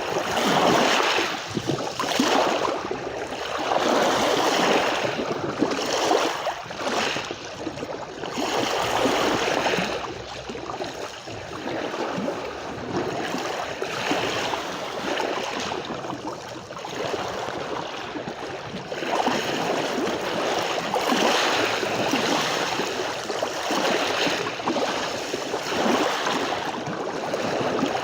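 Sea waves on a sandy beach: a steady rush of surf that swells and eases every few seconds as the waves come in.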